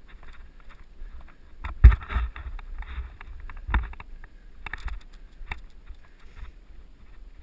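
Mountain bike rattling and jolting over rough trail, heard from a helmet-mounted GoPro: scattered clicks and rattles with two hard knocks about two seconds apart, then a few lighter ones.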